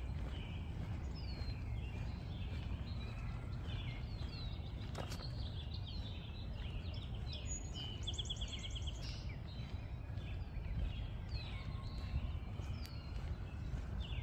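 Songbirds chirping and calling, with many short whistled notes and a rapid trill about eight seconds in, over a steady low outdoor rumble.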